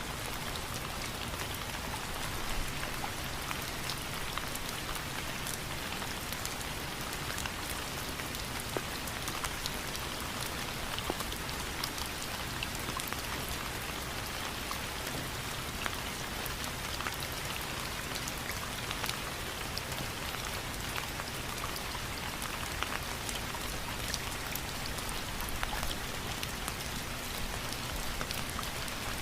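Steady rainfall, an even hiss dotted with many small sharp drop ticks, with no change in intensity.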